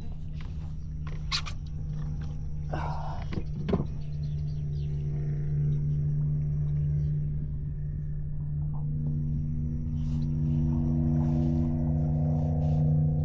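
Steady electric trolling-motor hum with several pitched tones, swelling a little louder in the second half. A few short knocks sound in the first four seconds.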